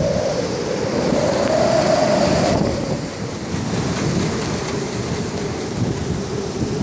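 Blizzard wind blowing hard, buffeting the microphone with a low rumble and howling with a wavering tone that swells and then drops away about two and a half seconds in.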